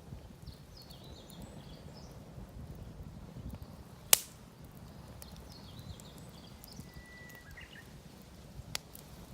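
Campfire of damp firewood burning poorly, with a low steady rumble and a sharp, loud pop of the wood about four seconds in and a smaller pop near the end.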